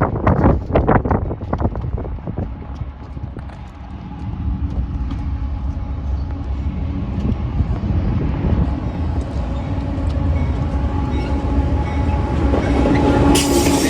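Freight train passing, a steady rumble of wheels and diesel locomotive engine with steady tones in it. It opens with a few sharp knocks, and a brighter, higher-pitched noise comes in near the end.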